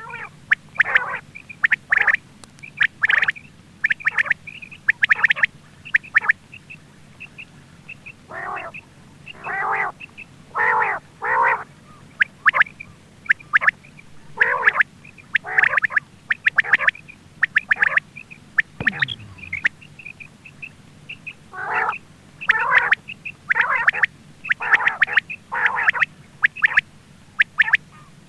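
Quail (batair) calling over and over, as played for a hunting lure: a steady stream of short, harsh calls, often in quick runs of two or three, with brief high chirps between them.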